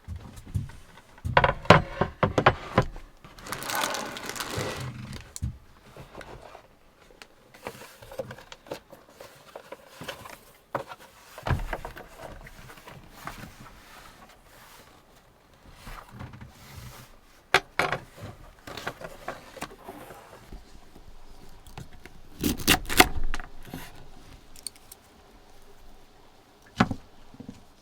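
Objects being handled and set down: an irregular run of knocks, clinks, scrapes and rustles, busiest in the first few seconds and again just past the middle.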